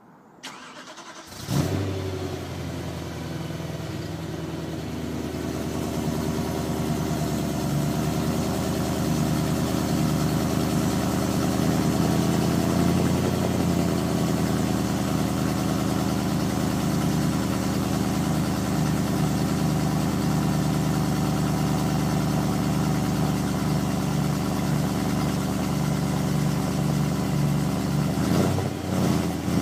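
2010 BMW M3 (E90) 4.0-litre V8 through a Remus Race exhaust, cold-started: a brief crank, then it fires about a second and a half in with a sharp flare and settles into a steady cold-start idle. The idle wavers briefly near the end.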